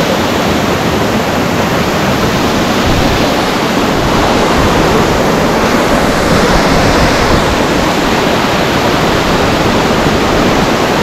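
Loud, steady rush of a waterfall pouring close by.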